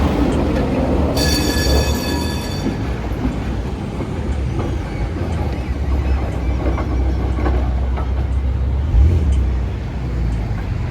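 Heritage tram running on its rails with a steady low rumble. About a second in, a high, even-pitched tone sounds for about a second and a half.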